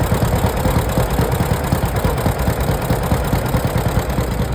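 Antique farm tractor engines running at idle, a steady low chugging.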